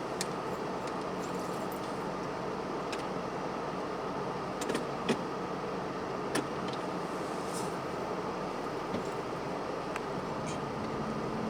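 Steady mechanical hum, like a vehicle running, with several short sharp clicks scattered through it.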